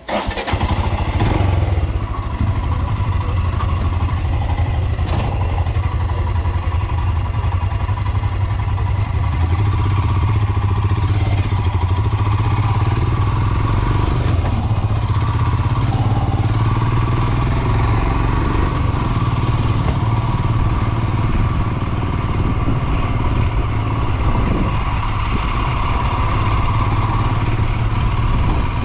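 Royal Enfield Himalayan 411's single-cylinder engine running steadily as the motorcycle is ridden.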